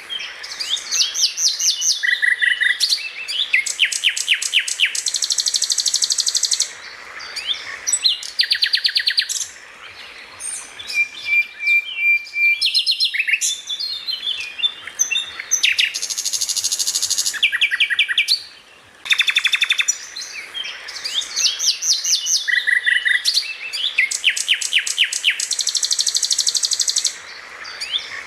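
Songbird song: rapid chirps, fast trills and buzzy high runs, with brief pauses between phrases. The same sequence of phrases comes round again about twenty seconds later, as a looped recording for training songbirds.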